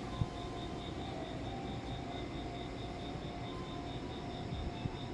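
Railway platform background: a steady low rumble with a faint high-pitched pulsing chirp repeating several times a second, and two light knocks, one just after the start and one near the end.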